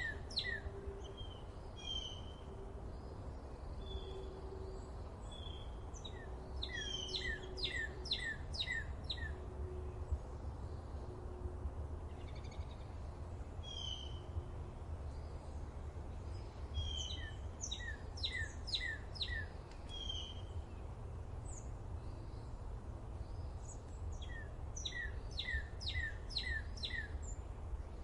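Songbirds singing in a forest. One bird repeats a phrase of six or seven quick, high, falling notes every several seconds, and others give scattered single chirps. A steady low rumble runs underneath.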